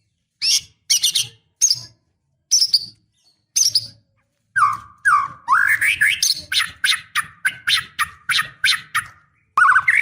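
Female white-rumped shama calling: a few separate harsh notes, then from about halfway a fast run of repeated chattering notes, about four a second. It is the call of a female in breeding condition calling to males.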